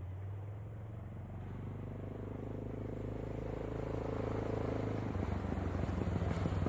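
Honda XR650L motorcycle's single-cylinder engine running with an even, rapid pulsing, slowly getting louder, with the beat growing heavier about five seconds in.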